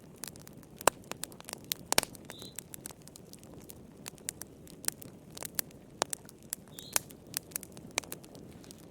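Fireplace fire crackling, with irregular sharp pops and snaps, several a second, over a soft steady hiss.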